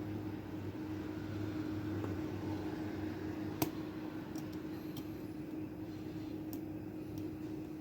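Steady background hum, with a few faint metallic clicks from lock picks working inside a lock; one click about three and a half seconds in is sharper.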